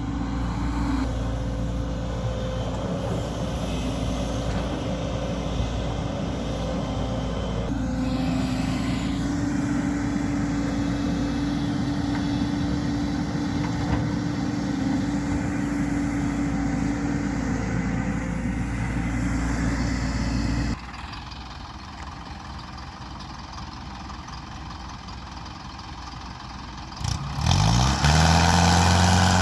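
Mahindra Arjun 555 DI tractor's diesel engine running steadily under load. About 21 seconds in it falls much quieter, then near the end it revs up quickly and runs loud.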